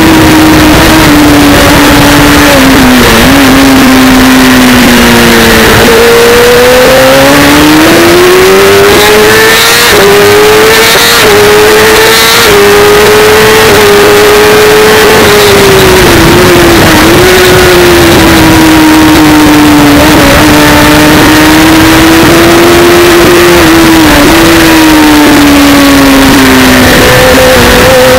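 Onboard sound of a sport motorcycle engine held at high revs, its pitch rising and falling with the speed through the corners and dipping briefly a few times, over rushing wind. The recording is overloaded and flat-out loud throughout.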